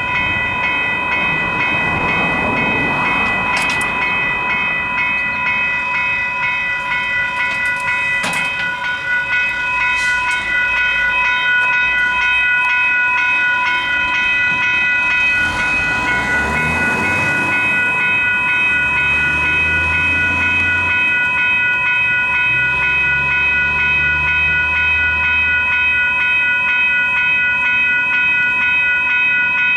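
Western Cullen Hayes electronic level-crossing bells ringing steadily on their quiet setting, warning of an approaching train. A low rumble joins in about halfway through.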